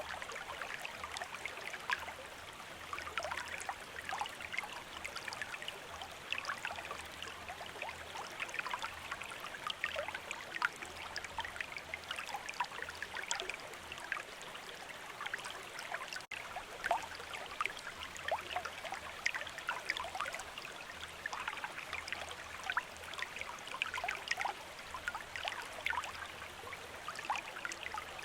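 Small river or stream running over stones: steady rushing water full of small splashes and trickles, with a momentary dropout about midway through.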